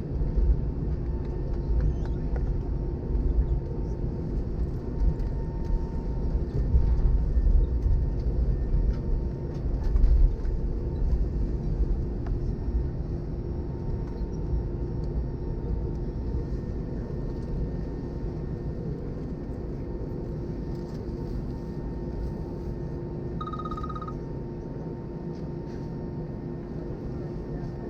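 Airbus A320 cabin noise on the ground after landing: a low rumble with a steady hum underneath, heaviest in the first half and easing off later. A brief high electronic tone sounds near the end.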